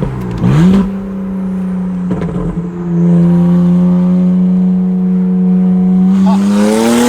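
Tuned BMW with a true dual exhaust accelerating hard, heard from inside the cabin. The engine note climbs quickly about half a second in, holds a steady high pitch, then climbs again near the end.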